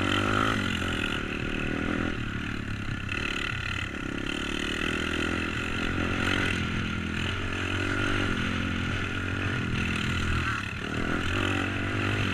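Pit bike's tuned YX 140 single-cylinder four-stroke engine being ridden, revving up and falling back again and again as the throttle is worked.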